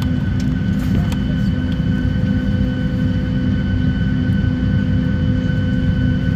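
Steady cabin noise inside a Boeing 737-800 with its doors closed: a constant low rumble with several steady whining tones over it, and a couple of faint clicks about a second in.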